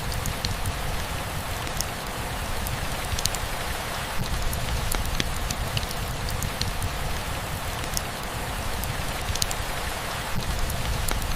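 Steady rain falling, with individual drops ticking sharply and irregularly over the continuous patter.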